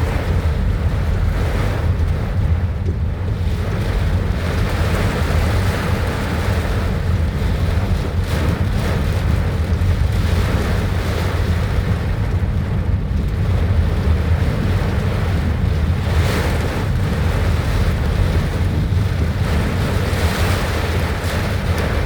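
Heavy rain and strong wind, the wind buffeting the microphone: a steady low rumble under a rushing hiss that swells and eases every few seconds.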